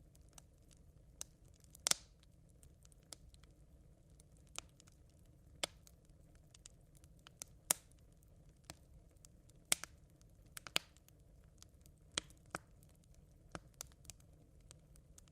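Campfire embers crackling: sharp, irregular pops and snaps roughly once a second, a few louder ones standing out, over a faint steady low hiss.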